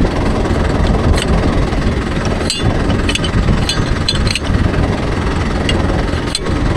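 Mahindra Yuvo Tech Plus 585 tractor engine running under load while driving a Bharat baler, with several sharp, unevenly spaced clacks from the baler's mechanism.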